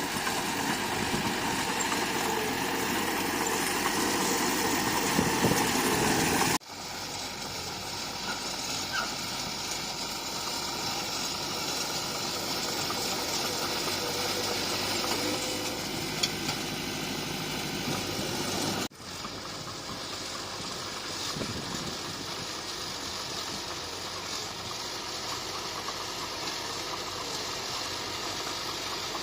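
Heavy earthmoving machinery's diesel engine running steadily. The sound breaks off and changes abruptly twice, about six and a half seconds in and again near nineteen seconds, and is loudest before the first break.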